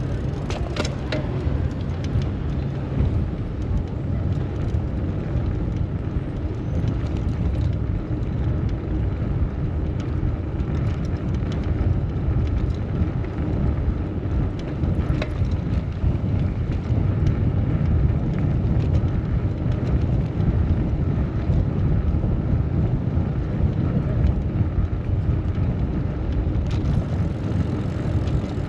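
City street traffic heard from a bicycle riding through it: a steady low rumble of road and traffic noise.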